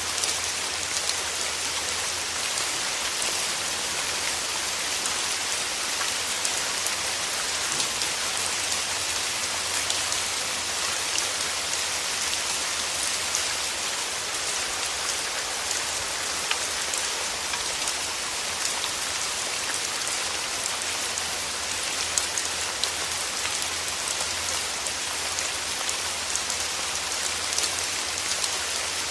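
Steady rain falling, an even hiss of many small drop ticks that holds the same level throughout.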